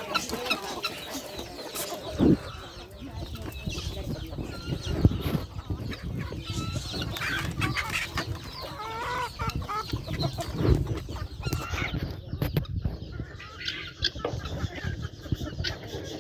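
Chickens clucking and chirping, many short calls overlapping, with a few knocks and thumps among them.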